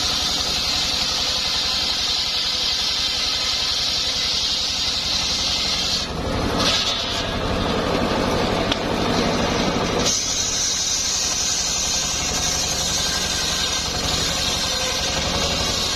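Homemade circular sawmill rig running steadily, its engine pulsing low under a high whine from the blade. About six seconds in the sound turns lower and heavier for a few seconds, then from about ten seconds the high whine comes back brighter.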